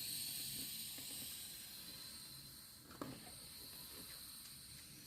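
Air hissing out of a Land Rover tyre's inner tube as it is deflated, slowly fading, with a single click about three seconds in.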